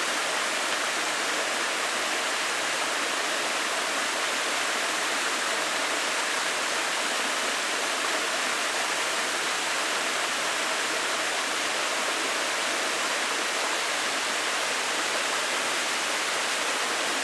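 Waterfall of glacial meltwater rushing steadily, a constant hiss of falling water.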